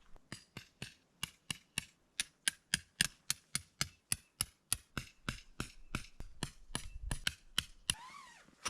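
A hammer striking in a steady run of sharp blows, about three to four a second, as during tent setup: most likely a stake being driven in.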